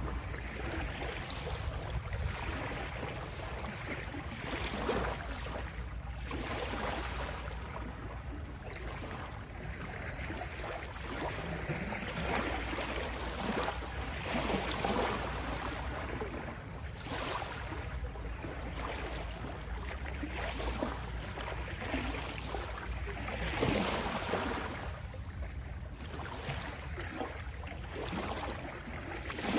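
Small sea waves lapping and rippling at the shore, the wash swelling and falling back every couple of seconds over a steady low rumble.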